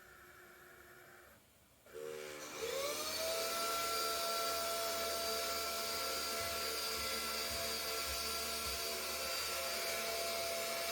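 SMDEE D2 futon vacuum cleaner switched on about two seconds in: its motor spins up with a rising whine and settles into a steady running whine.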